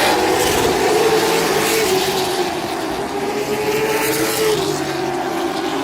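Race car engines running on the track, a continuous engine note that rises and falls slightly in pitch.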